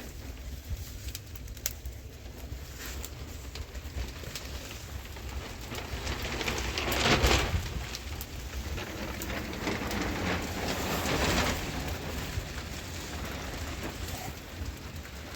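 Rain falling, with scattered drops ticking, under a low rumble. The noise swells louder twice, about seven seconds in and again around ten to eleven seconds.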